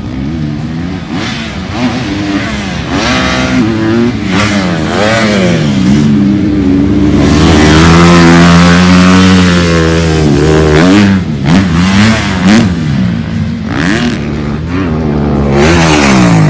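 Off-road vehicle engine revving hard, its pitch climbing and dropping again and again, held at high revs for a few seconds near the middle.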